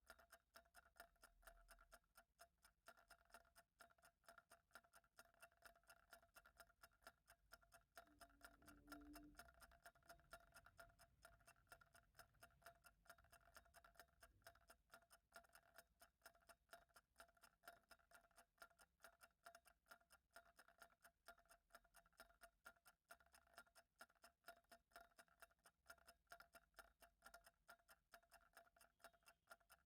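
Very faint, steady ticking of a clock, evenly spaced, over a faint steady hum, with a brief low tone about eight seconds in.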